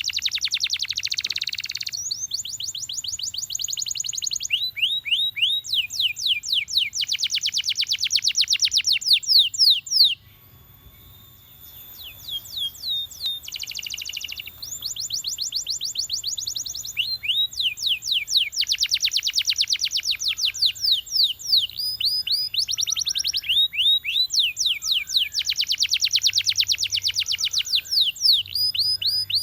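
Domestic canary singing: a run of fast trills, each a quick series of repeated rising or falling notes, changing from one trill to the next. There is a brief pause about ten seconds in, and then the song resumes.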